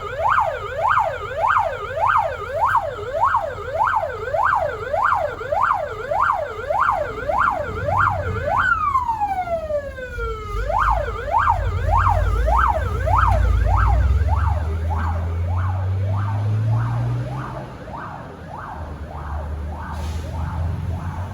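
Russian fire truck's siren sounding in quick up-and-down sweeps, about two and a half a second; about nine seconds in it drops in one long falling glide, then the quick sweeps start again and grow fainter near the end. The truck's engine rumbles underneath, rising in pitch as it speeds up in the middle.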